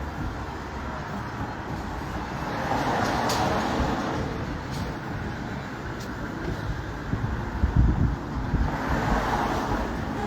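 Outdoor street traffic noise: a steady rumble of passing vehicles, with a few sharp clicks and a louder stretch of rumbling about three quarters of the way through.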